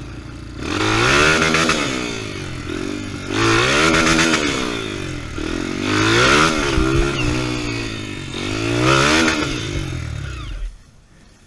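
Off-road trail motorcycle engine revved hard four times, each rev rising and falling in pitch, then the engine sound stops abruptly near the end.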